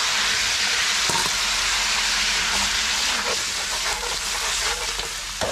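Pork rib pieces sizzling steadily as they are stir-fried in a wok, coated in caramelised sugar, with a metal spatula clinking against the pan a couple of times.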